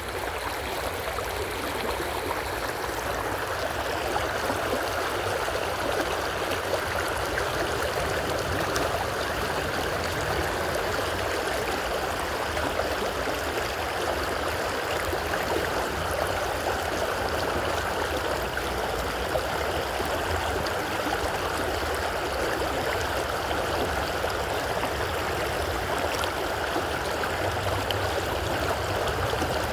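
Creek water running, a steady, even sound with no breaks.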